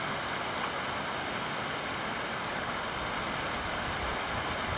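Heavy rain pouring down in a dense, steady hiss, with no hail in it.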